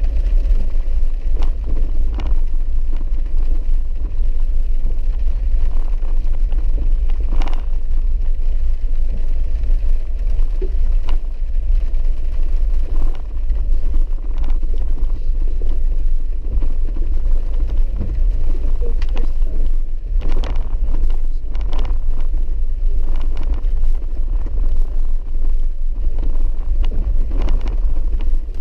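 Vehicle driving slowly on a rough, muddy dirt road, heard from inside the cabin: a steady low rumble of engine and tyres, with scattered knocks and rattles as it bumps over ruts.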